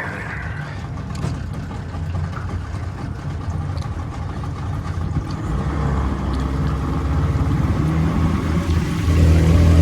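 Boat motor running steadily with a low hum, getting louder partway through and again near the end.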